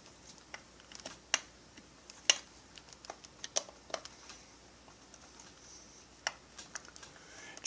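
Scattered light clicks and taps at irregular intervals, a few a second and some louder than others: small parts and tools being handled during chainsaw engine assembly.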